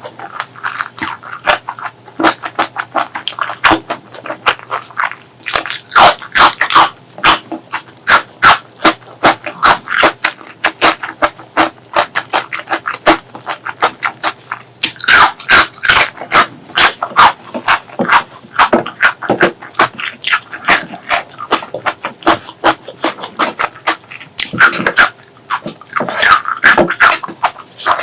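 Close-miked eating sounds: wet chewing and lip smacking with rapid clicks, coming in bursts that grow loudest a few times.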